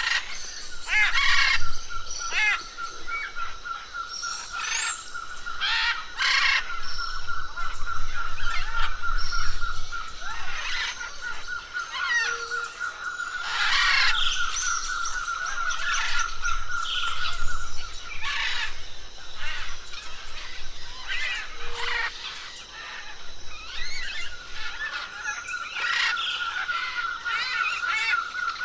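Several forest birds calling over one another with short chirps and whistles. Under them runs a steady, fast trill on one pitch that breaks off for a few seconds past the middle and then starts again.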